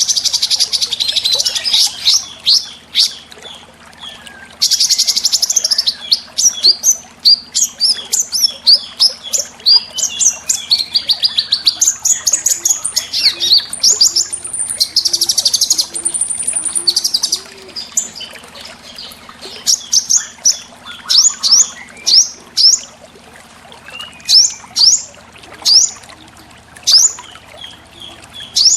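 Small songbirds singing in a masteran (model-song) recording for training cage birds. It has fast, high trills of several seconds, near the start, around five seconds in and around fifteen seconds in, and many short, sharp chirps repeated quickly in between.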